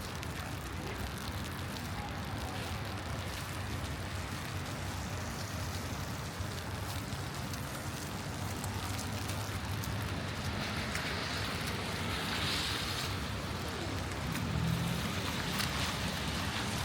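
Wet city street ambience in light rain: a steady low traffic rumble with a rushing hiss that swells for a couple of seconds midway.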